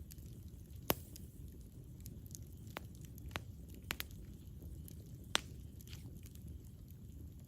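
Campfire burning: a low steady rumble of flames with scattered sharp pops and snaps, the loudest about a second in and again about five seconds in.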